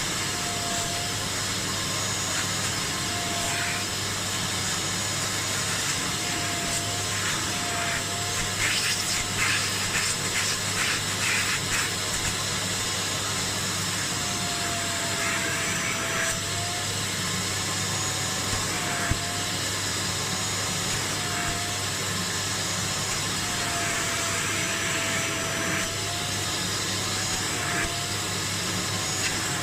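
Kärcher Puzzi 10/1 spray extractor running steadily as it shampoos and extracts upholstery, its motor pitch dipping briefly every few seconds, with stretches of rapid rattling as the nozzle works the fabric.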